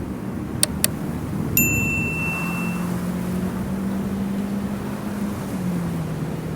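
A vehicle's engine running steadily, its note stepping down slightly about five and a half seconds in. Two sharp clicks come in the first second, and a single ringing ding comes about one and a half seconds in and fades over about a second.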